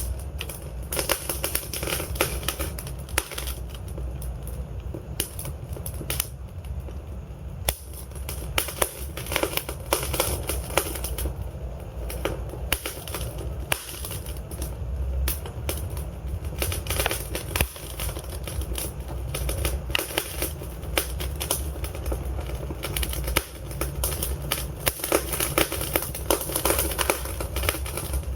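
Wood fire in a fireplace, logs burning with dense, irregular crackling and popping over a steady low rumble of the flames.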